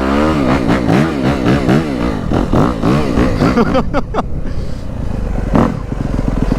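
Dirt bike engine revving up and down over and over, its pitch rising and falling several times, then settling to a steadier run in the last couple of seconds.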